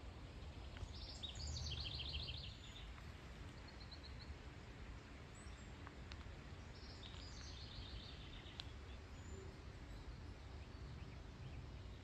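A songbird sings twice, once near the start and again about halfway through. Each song is a few quick trills of rapid repeated notes that step down in pitch. A faint low rumble runs underneath.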